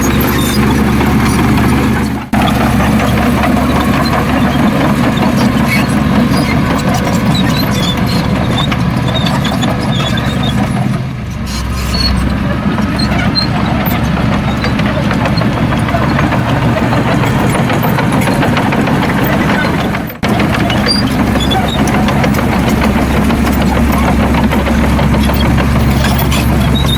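Heavy diesel engine of earthmoving machinery running steadily at a low, even pitch. The sound drops out sharply for a moment twice, about two seconds in and near twenty seconds, and dips briefly around the middle.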